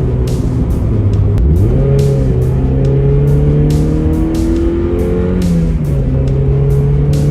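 Mazda Miata's four-cylinder engine running through a new Cobalt cat-back exhaust while driving. The note climbs quickly about a second and a half in, holds as the car pulls, and drops back a little near the end.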